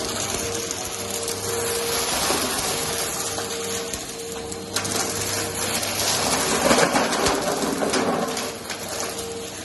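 Vacuum cleaner running over carpet with a steady motor hum and scattered clicks and rattles, louder for a stretch about seven seconds in.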